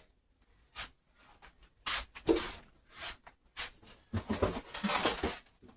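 Short rustling and knocking handling noises, a few scattered at first, then coming more densely in the second half.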